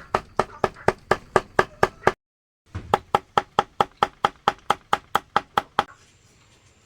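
Rapid, even knocking strokes, about four a second, broken by a short silent gap about two seconds in, then stopping near six seconds.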